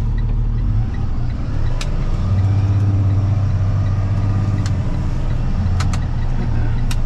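Box truck's engine heard from inside the cab, running steadily and then pulling harder from about two seconds in as the truck moves off into traffic. A few sharp clicks sound over it.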